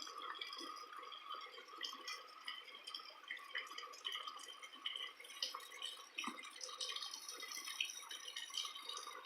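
Rain falling and dripping: a faint, steady patter of many small irregular drips and taps, with one sharper tap about six seconds in.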